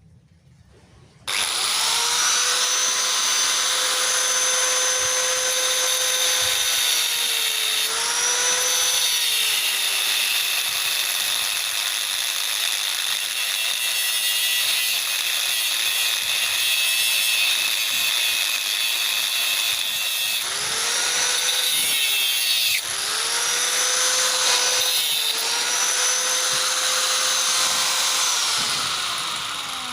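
A handheld electric power tool switches on about a second in and runs with a steady high whine. Its pitch sags and recovers a few times as it is loaded, and it winds down near the end.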